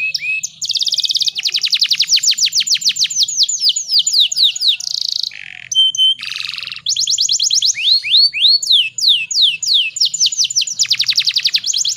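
Domestic canary singing: fast trills of rapidly repeated notes alternating with sweeping whistled notes, with a short break near the middle.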